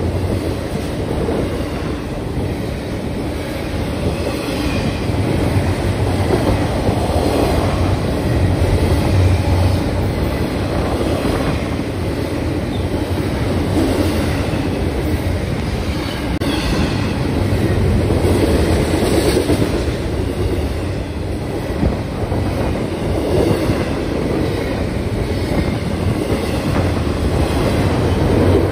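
Double-stack container cars of a Union Pacific intermodal freight train rolling past at speed, with the steady, loud noise of steel wheels running over the rails.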